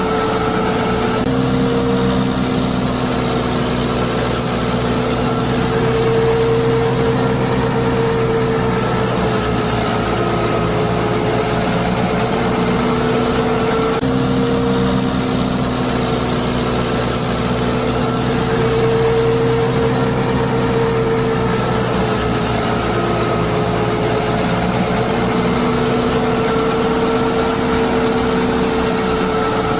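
Small electric motor of a DIY mini tractor running steadily, a continuous drone with a whine that slowly wavers in pitch.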